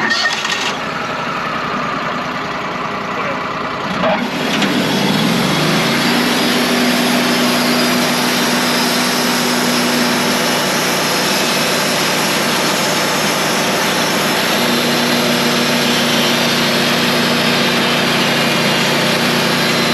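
A Wood-Mizer sawmill runs loud throughout. About four seconds in, its engine throttles up, rising in pitch over a couple of seconds, and then holds a steady high speed with the band blade running.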